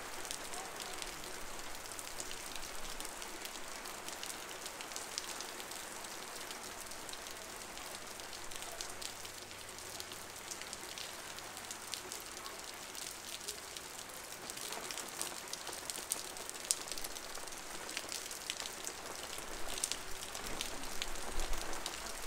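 Downpour on a city street: a steady hiss of heavy rain with many sharp little drop splashes and ticks on top.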